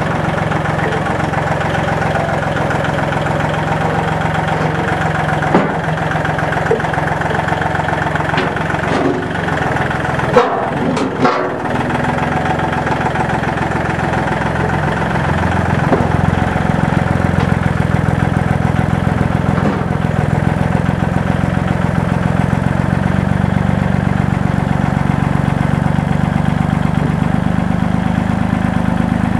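Old Chevrolet flatbed truck's engine running steadily, with a few brief knocks about ten seconds in, then running a little louder from about sixteen seconds on.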